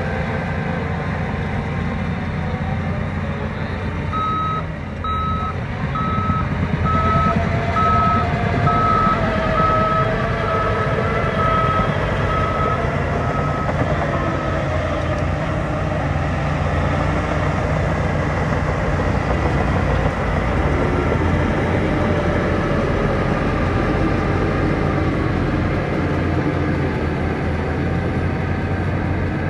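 Heavy diesel construction machinery running steadily, with a backup alarm beeping about a dozen times at a little over one beep a second while the machine reverses.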